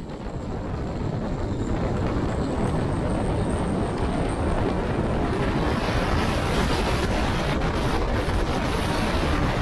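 Light propeller airplane's engine running at high power with the rush of wind. The noise builds over the first couple of seconds, then holds steady.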